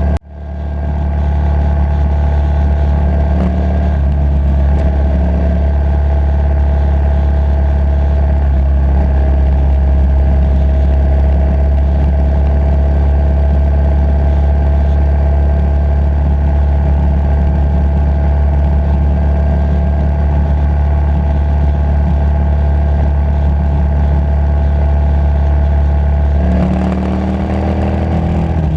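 Motorcycle engine running steadily while riding, under a heavy low rush on the helmet-free camera microphone. The sound cuts out for an instant at the start and swells back in. Near the end the drone eases and the engine note shifts up and down in pitch.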